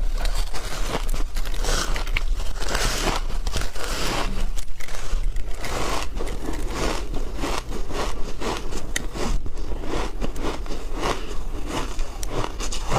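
Shaved ice being bitten and chewed close to the microphone: a dense run of irregular crunches and crackles. A steady low hum sits underneath.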